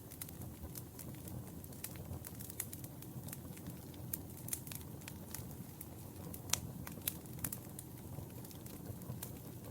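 Wood fire crackling, with irregular sharp pops and snaps over a low steady rumble; the sharpest pop comes about six and a half seconds in.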